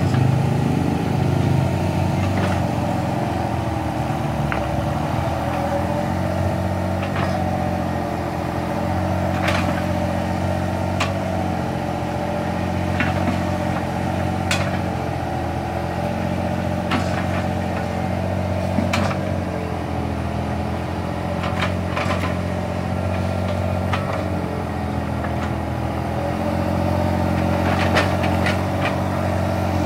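Mini excavator's engine running steadily, its pitch dipping and recovering now and then, with scattered sharp knocks.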